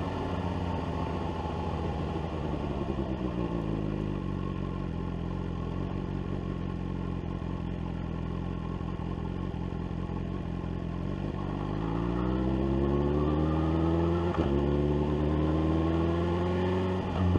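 BMW S1000R's inline-four engine, first off the throttle with revs sinking slowly for about ten seconds. It then pulls hard with revs climbing, and shifts up once about fourteen seconds in and again near the end.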